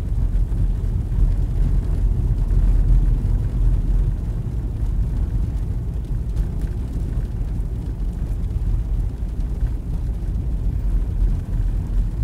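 A car driving on a snow-covered road, heard from inside the cabin: a steady low rumble of engine and tyre noise.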